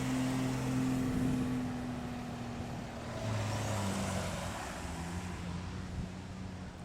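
Engines of Japanese cars pulling away at low speed, a steady engine note that changes pitch about three seconds in as another car takes over.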